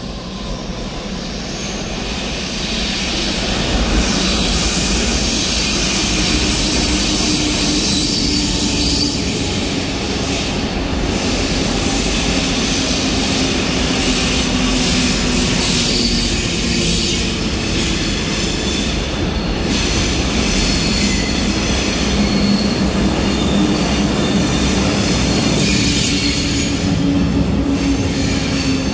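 Double-deck S-Bahn train coming out of the tunnel and rolling along the platform, growing louder over the first few seconds. Its wheels squeal over a steady running drone whose pitch slowly sinks.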